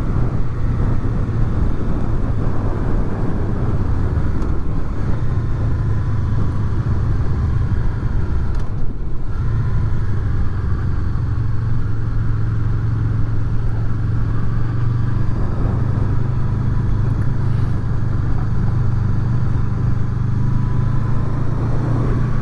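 Honda VFR800 V4 engine running steadily under way, heard from the rider's position along with road and wind noise through furry-windshielded microphones. The engine note holds even, with a brief easing about nine seconds in.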